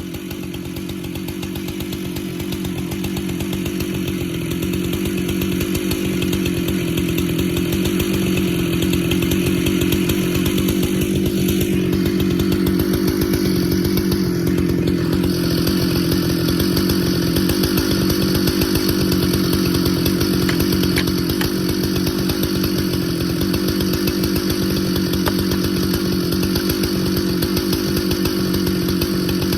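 Husqvarna chainsaw running at high throttle while noodling a large pecan round, ripping along the grain. It gets louder over the first few seconds, then holds a steady pitch under load.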